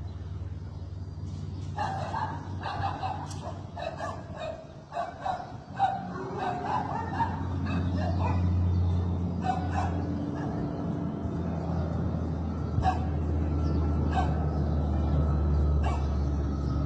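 Low, steady drone of turboprop aircraft engines that grows louder from about six seconds in. Over it a dog barks in a quick run for several seconds, then a few single barks follow.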